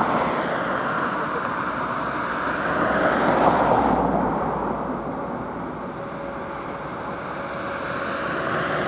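Jet airliner engines running, a steady rushing noise that swells to its loudest about three to four seconds in, then eases off.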